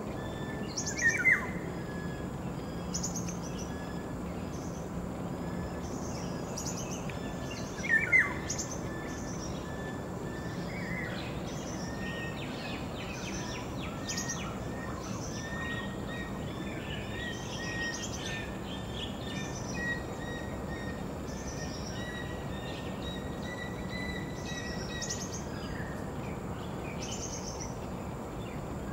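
Forest bird chorus: two loud, brief downslurred calls, about a second in and again about eight seconds in, over many high, short chirps repeating throughout and a thin steady tone.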